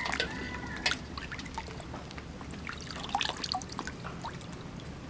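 Water trickling and splashing, with irregular small clicks and one sharper knock about a second in.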